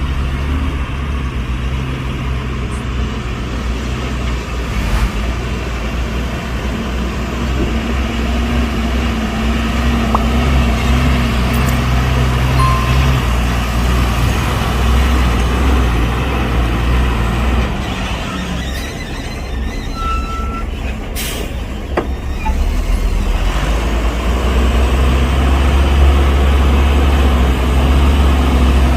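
Diesel engines of heavy dump trucks and earthmoving machinery running steadily, getting louder in the last few seconds, with a short sharp hiss about three quarters of the way through.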